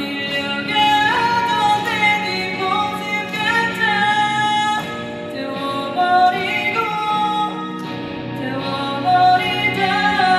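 Live band performance: a woman sings the lead over a rock band of electric and acoustic guitars, bass, keyboard and drums.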